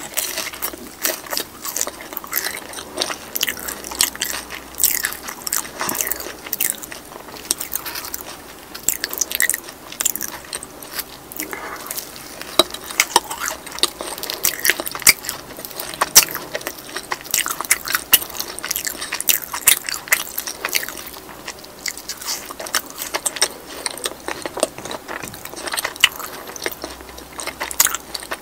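Close-miked biting and chewing of crispy fried food, including a fried cheese ball, with many sharp, irregular crunches.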